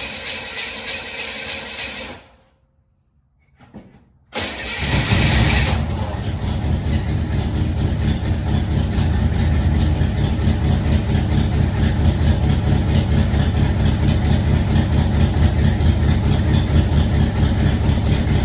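A steady mechanical noise stops about two seconds in, followed by near silence. About four seconds in, a 1967 Chevrolet Impala's engine catches on a cold start after sitting a week, flares up for about a second and a half, then settles into a steady idle.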